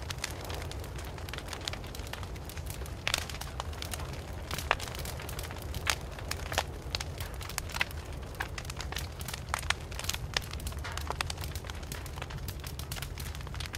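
Wood fire burning with frequent irregular crackles and pops over a steady low rumble of the flames.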